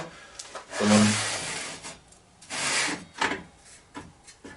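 Circular saw's rip fence being slid along its rail and set against the blade: a few scraping, sliding strokes with short knocks.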